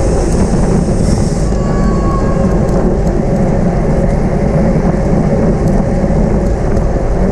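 Steady rush of wind and road noise on the microphone of a camera riding along on a racing bicycle at speed.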